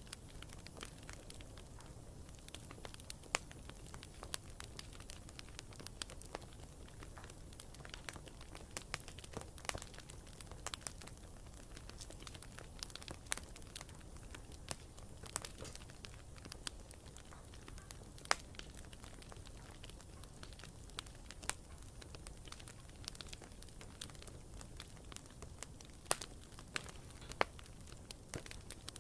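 Wood fire crackling: irregular sharp pops and snaps over a low steady hiss of burning, with a few louder pops.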